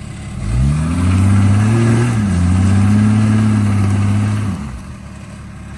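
Rock-crawling 4x4's engine revving under load as it climbs a rock: the note rises about half a second in, holds high for a few seconds, then drops back off.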